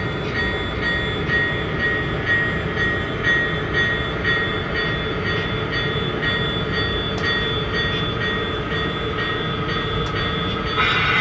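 Sound-equipped model Norfolk Southern diesel locomotive running on the layout: a steady engine sound with wheel noise on the track. A brighter, louder sound comes in at the very end.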